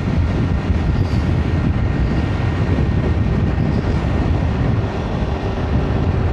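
Steady wind rush on the microphone and road noise from a Bajaj Pulsar 200 NS motorcycle cruising along the highway, its engine running under the wind.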